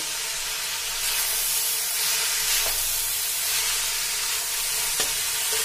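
Shredded cabbage, carrot and sauces sizzling in hot oil in an iron wok during a stir-fry, a steady hiss that grows louder about a second in. A couple of light clicks from the metal spatula against the pan.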